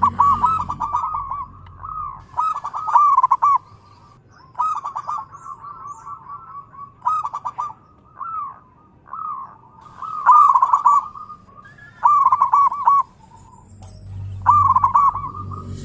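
Zebra doves (perkutut) cooing: about a dozen short phrases of quick, repeated notes, one after another at irregular gaps. A low rumble sits underneath at the start and again near the end.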